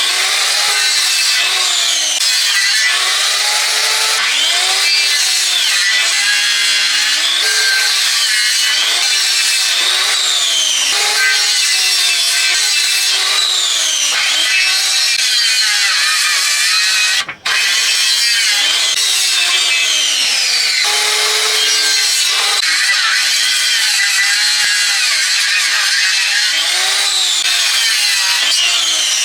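Hand saw cutting through wood in steady back-and-forth strokes, about one a second, each stroke rising and falling in pitch. There is a brief break about 17 seconds in.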